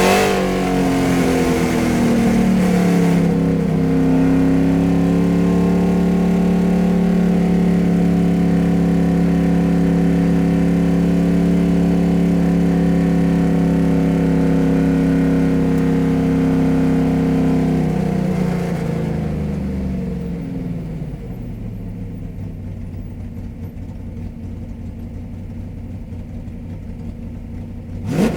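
Car engine easing off a rev, then held at steady revs for about fifteen seconds before the revs drop away to a quieter, lower idle. A sudden louder sound cuts in at the very end.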